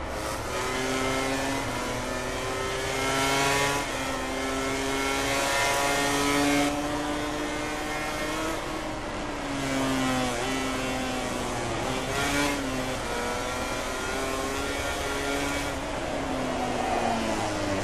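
MotoGP racing motorcycle engines at high revs, the pitch repeatedly climbing and dropping back in steps with each gear change.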